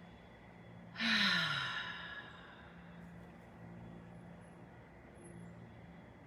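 A woman exhales audibly through her mouth in one long sigh about a second in, the voiced part falling in pitch as the breath runs out. It is the exhale of a cleansing breath.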